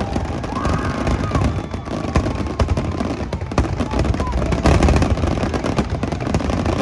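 Large aerial fireworks display in a dense barrage: many overlapping shell bursts and crackles over a steady booming rumble, with a few short whistles.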